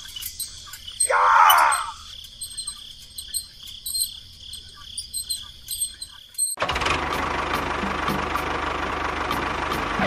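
Faint insect-like chirping with a steady high tone, broken about a second in by a short rising swish; about six and a half seconds in, a machine starts running steadily and loudly, with a low rumble underneath.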